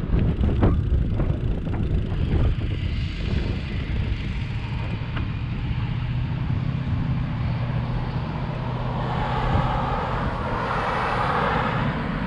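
Wind rumbling on the microphone during a bicycle ride, with a few knocks in the first couple of seconds. A motor engine drones steadily under it and grows louder near the end.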